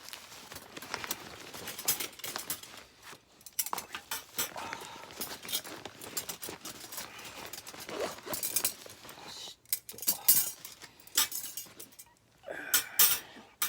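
Tokyo Camp folding fire pit being unpacked: its metal parts clink and rattle as they are handled, among rustling of packaging, in many irregular knocks and clicks.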